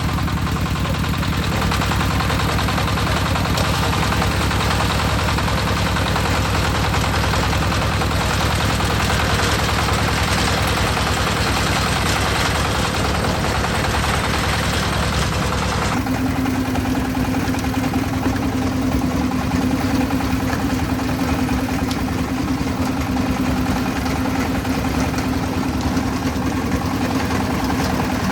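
Concrete mixer's engine running steadily. About halfway through, the sound changes abruptly: the higher rattle drops away and a steady low hum takes over.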